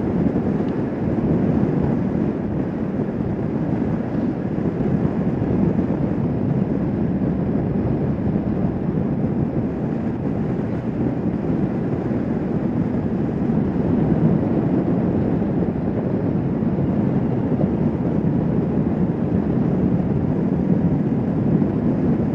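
Kawasaki Vulcan S 650 motorcycle riding at a steady speed: the parallel-twin engine's drone mixed with wind rushing over the microphone, with no changes in pace.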